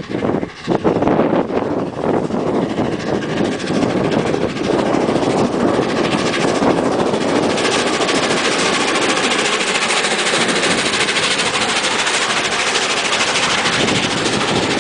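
Peppercorn A1 Pacific steam locomotive 60163 Tornado and its train passing at speed: rapid exhaust beats over a loud rush of wheels on rail, getting louder and fuller about halfway through.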